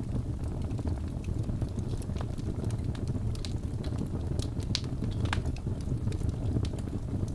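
Crackling fire: a steady low rumble with scattered sharp pops and snaps, a small cluster of them around the middle.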